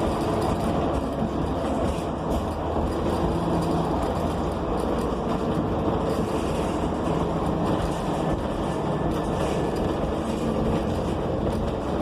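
Inside a 2015 New Flyer XN40 natural-gas bus under way: the Cummins Westport ISL G engine hums over steady road noise and light rattles, its note shifting pitch a few times as the bus changes speed.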